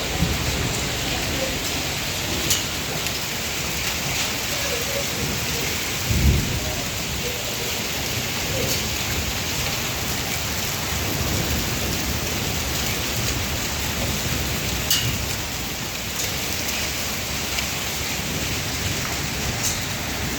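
Hailstorm with heavy rain: a steady hiss of rain and hail pelting down, with scattered sharp clicks of single hailstones striking. A low thump about six seconds in is the loudest moment.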